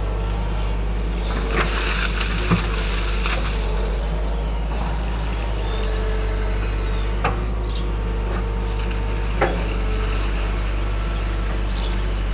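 Hydraulic excavator's diesel engine running steadily under load, with a few sharp clanks from the machine as it works.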